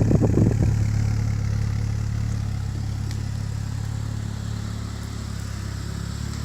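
Saab 9-3 convertible's engine idling just after a cold start. It runs rougher and louder in the first half-second, then settles into a steady idle that slowly eases in loudness.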